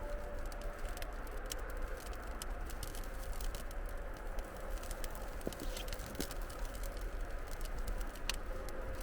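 A bonfire crackling and popping as a Christmas tree catches, dense irregular snaps over a steady low rumble.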